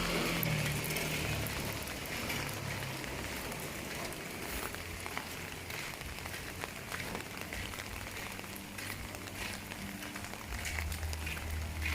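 Steady rain falling, with many small drop ticks. A passing vehicle's rumble fades away in the first couple of seconds.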